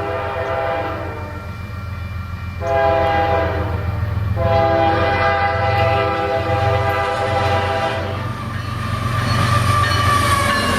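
Locomotive air horn, a Nathan K5H five-chime, sounding three blasts, the last held for about three and a half seconds, over the low rumble of a fast-moving freight train. After the horn stops, the rolling noise of the train grows, with a falling whine near the end.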